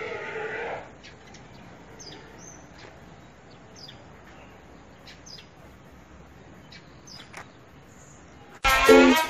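Quiet outdoor ambience with scattered short bird chirps, after a longer sustained call that fades within the first second. Near the end, loud plucked-guitar music starts suddenly.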